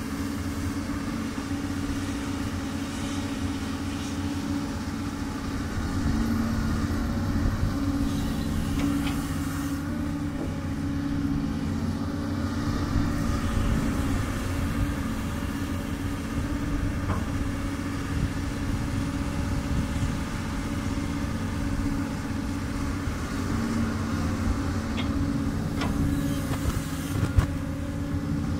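Doosan DX200 excavator's diesel engine running steadily while it works, its drone rising and easing slightly in places. A single sharp knock near the end.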